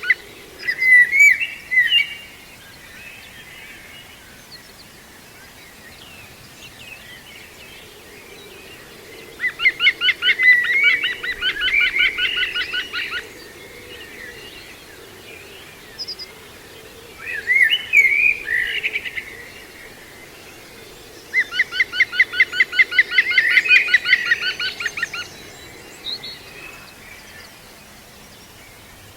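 Green woodpecker giving its laughing 'yaffle' call, a fast run of loud repeated notes about four seconds long. It comes twice, once about ten seconds in and again past twenty seconds in, with shorter chirping bird calls between the runs.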